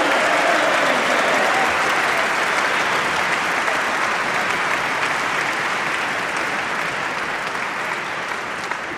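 Crowd applauding steadily, slowly dying down near the end.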